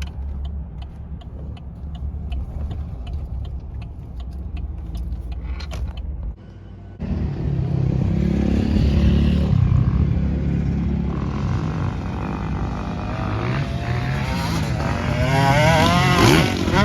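Low, steady road rumble of a car driving, heard from inside the cabin. After a cut about seven seconds in, motocross dirt bike engines rev up and down at the track.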